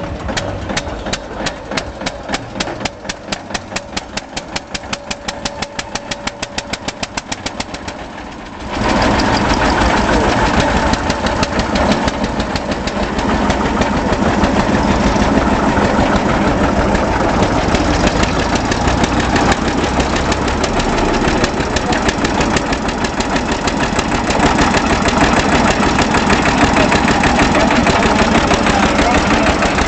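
Svoboda DK15 tractor engine running with slow, separate firing beats that gradually quicken. About nine seconds in it jumps abruptly to a much louder, fast, steady run that holds.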